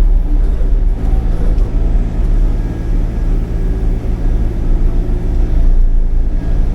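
Sany 35 mini excavator's diesel engine running steadily, driving its hydraulic mulcher head through brush and debris.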